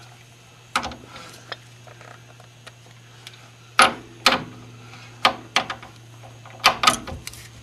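Scattered sharp metal clinks and clanks of hand tools being handled and a wrench or socket being fitted to a suspension nut, about eight in all and mostly in the second half, over a steady low hum.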